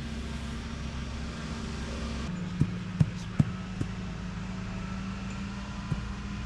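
Steady low drone of an idling engine from the job-site machinery, which shifts suddenly about two seconds in. Then five short sharp knocks: four in a quick run in the middle and one more near the end.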